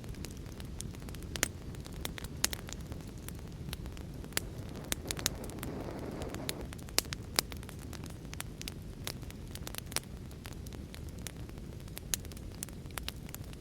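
Wood fire crackling with frequent sharp pops over a steady rushing background of rain. A brief swell of rushing noise comes about halfway through.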